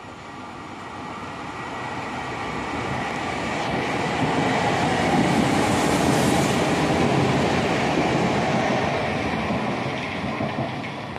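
Trenitalia regional electric train passing through a station without stopping. Its rolling noise builds as it approaches, is loudest about halfway through as the cars pass close by, then fades as it runs away down the line.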